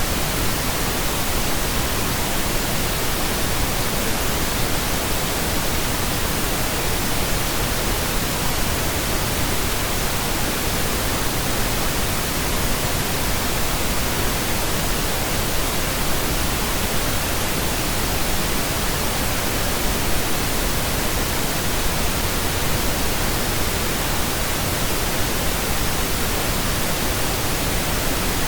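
Steady synthetic pink noise: an even, unchanging hiss spread across the whole range, with no tones or events in it.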